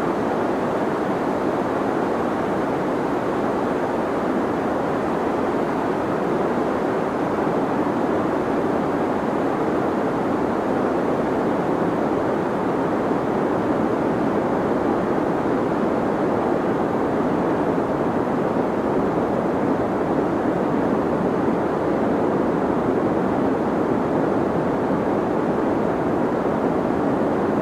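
Deep white noise for sleep: a steady, even hiss weighted toward the low and middle range, with no changes.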